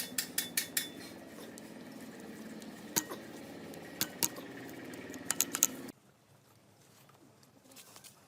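Metal parts and tools clinking and clicking in quick runs, some ringing briefly, over a steady low hum. Both stop abruptly about six seconds in.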